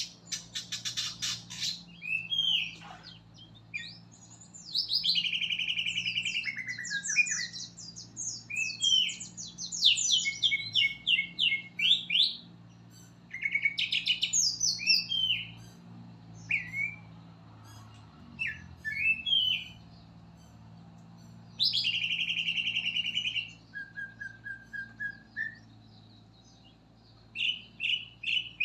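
Songbird song from a masteran tutoring recording for caged birds: a varied run of short chirps, quick whistled notes and fast rattling trills, broken by short pauses, over a faint low hum.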